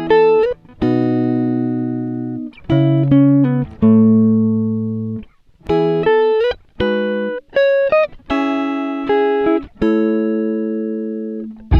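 Background music: a guitar playing single notes and chords that ring out and fade, some of them bent or slid in pitch, with short pauses between phrases.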